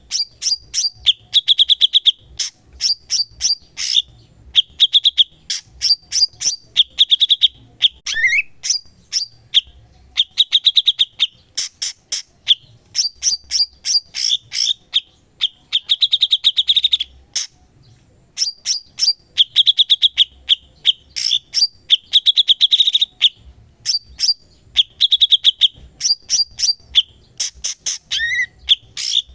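A cucak cungkok songbird singing continuously in fast, chattering phrases. Its song is made of rapid high chips and short trills, with brief pauses between runs.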